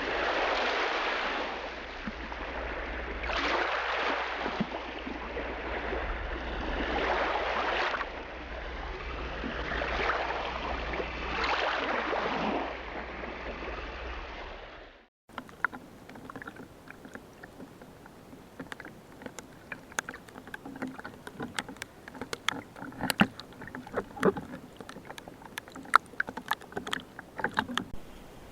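Sea water washing in repeated surges every couple of seconds over a low steady rumble. About halfway through it cuts suddenly to a quiet underwater soundscape of sharp, scattered crackling clicks.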